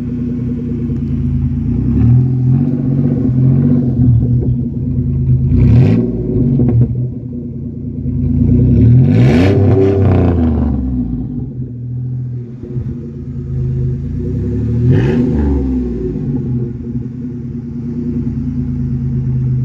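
Straight-piped minivan engine running loud shortly after a cold start, idling between three throttle blips. Each blip rises and falls in pitch, and the biggest comes about halfway through.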